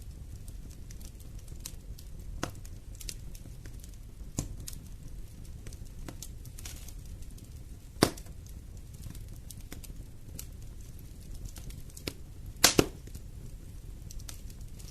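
Wood fire in a fireplace crackling over a low steady rumble, with scattered sharp pops; the loudest is a single pop about eight seconds in, then a quick double pop near the end.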